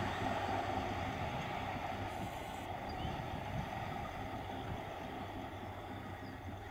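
Electric multiple unit train running along the track: a steady rumble and hiss that fades a little over the few seconds.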